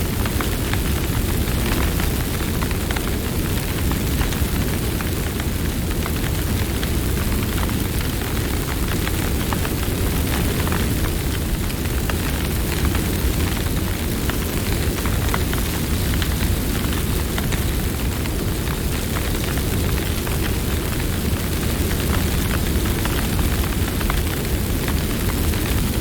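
Wood campfire burning, with a steady low rumble of flame and many small crackles and pops scattered throughout.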